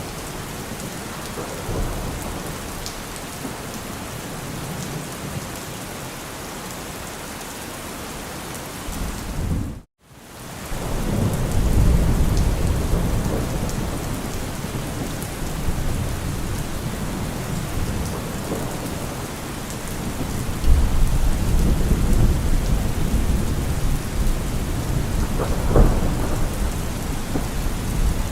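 Heavy rain falling on a car roof with rolling thunder. The sound cuts out for an instant about ten seconds in, then the low rumble of the thunder swells, and it grows again about twenty seconds in.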